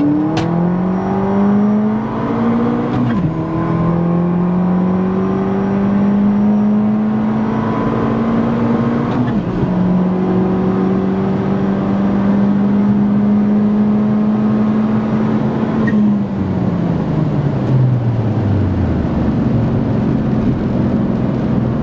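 Tuned turbocharged car with a hybrid turbo and downpipe exhaust accelerating hard through the gears: the engine pitch climbs, drops at a gear change about three seconds in, climbs again to a second shift at about nine seconds, holds high, then falls away as it slows near the end.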